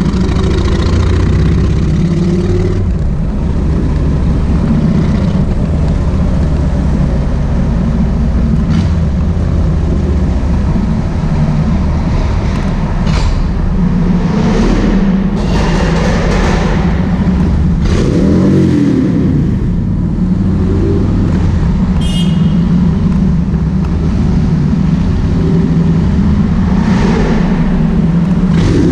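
Kawasaki VN1600 Mean Streak's V-twin engine running under way, its pitch rising and falling several times with the throttle. A brief high-pitched tone sounds once about two-thirds of the way through.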